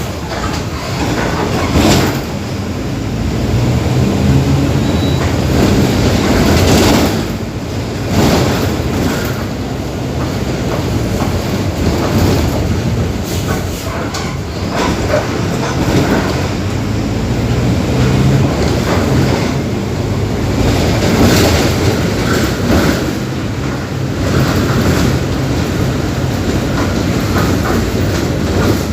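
The diesel engine of a Mercedes-Benz OF-1721 BlueTec 5 bus runs steadily under way, with rattles and knocks from the bus body over the engine's low hum.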